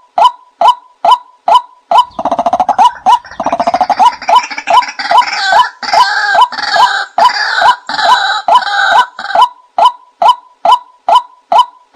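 Recorded 'nok kai na' (a Thai field bird) decoy call: short, evenly spaced calls about two and a half times a second. From about two seconds in to near the end, a fuller, overlapping bout of calling joins them.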